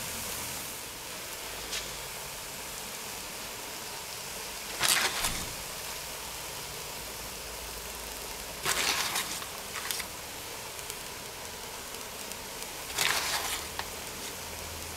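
Mushrooms and mini gherkins frying in a cast-iron Dutch oven with a low, steady sizzle, broken three times by short rustles, about five, nine and thirteen seconds in, as flour is scattered over them by hand.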